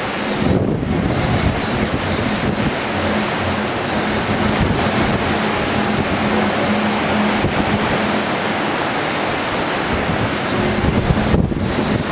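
Strong typhoon wind buffeting the microphone, a loud steady rushing and rumbling.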